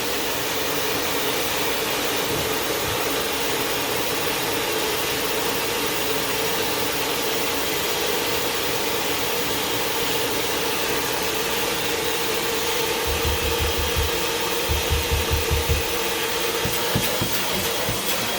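Hoover Wind Tunnel 2 Whole House Rewind upright vacuum running steadily with a steady hum while its hose and wand suck. A run of quick low bumps comes about two-thirds of the way through.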